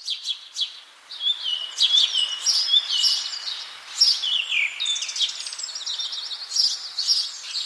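Birdsong: several birds singing at once, a dense run of quick, high chirps and trills over a faint hiss.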